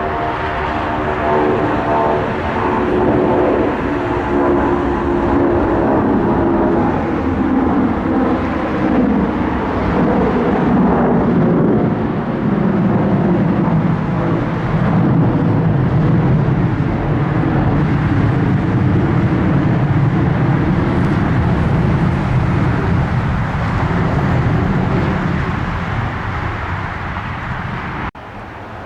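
Airliner passing close by, its engine tones sliding down in pitch as it goes past, then settling into a steady rumble that cuts off suddenly near the end.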